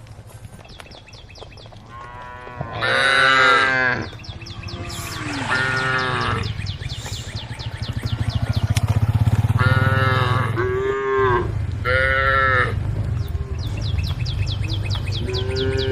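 Cows mooing, about half a dozen drawn-out calls that rise and fall in pitch, some following close on one another, over a steady low rumble.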